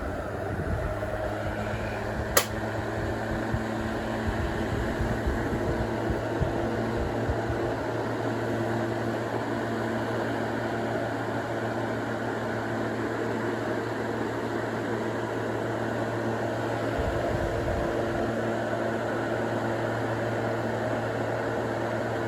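Duracraft DT-50 10-inch oscillating-style table fan running steadily: an even motor hum under the rush of air from the blades. A single sharp click about two seconds in.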